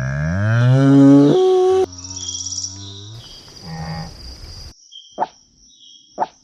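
Animal calls: a loud, low call rising in pitch for about two seconds, then a second lower call, and two short sharp calls near the end.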